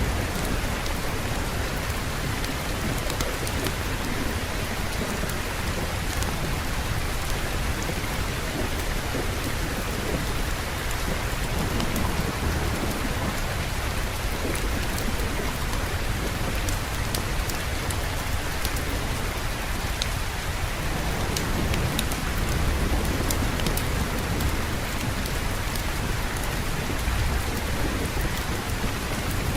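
Steady heavy rain, with low thunder rumbling underneath that swells about three-quarters of the way through.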